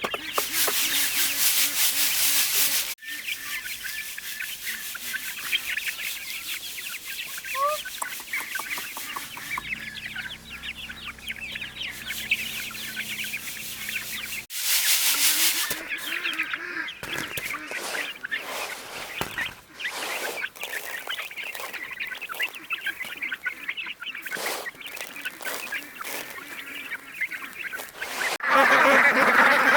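Chickens clucking, over many short clicks and taps. Two short stretches of loud rushing noise come at the start and about halfway through. The sound changes abruptly several times.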